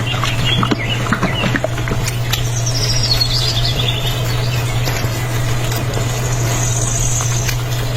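Birds chirping in short high runs over a steady low hum.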